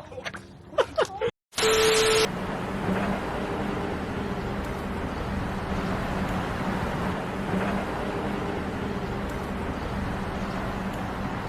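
Steady vehicle engine and road noise with a low hum. It starts after a short burst of hiss with a steady tone about a second and a half in.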